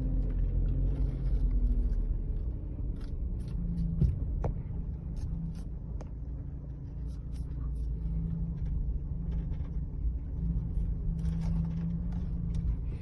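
Haval M6 driving, with steady low road and engine rumble and scattered short creaks and clicks from the body, the squeak the owner is chasing.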